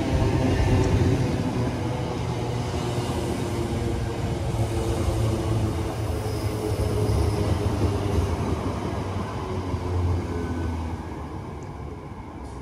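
A train passing close by: a loud, steady rumble that fades away near the end.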